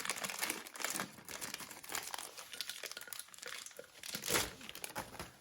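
Packaging for small parts being handled and opened: a continuous run of rustling and crackling.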